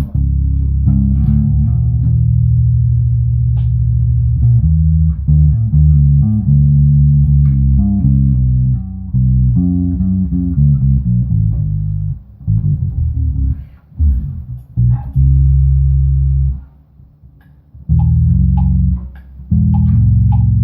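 Bass guitar playing a line of held low notes that change pitch every second or so. It stops for about two seconds near the end, then starts again.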